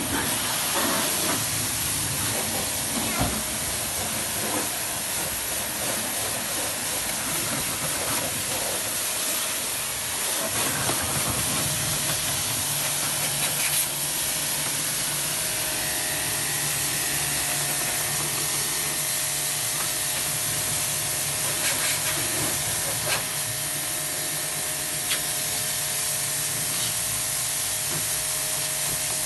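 Steady hissing spray of water, with a steady motor hum joining about halfway through and a few scattered clicks.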